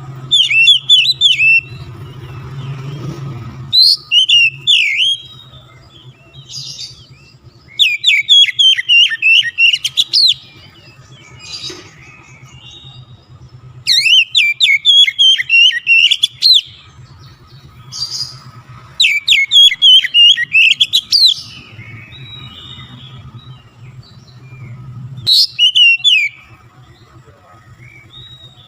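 Oriental magpie-robin (kacer) singing loudly in about six bursts of rapid, varied whistled and chattering phrases. Each burst lasts one to two and a half seconds, with short pauses between. A faint low steady hum runs underneath.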